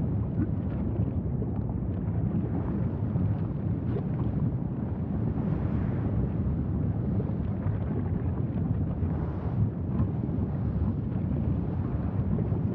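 Wind buffeting the microphone: a steady low rumbling noise with no let-up.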